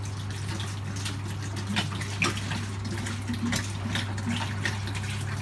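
Water poured from a plastic jug into a semi-hydro orchid pot, splashing steadily as the pot is filled quickly to flush it through its drainage holes.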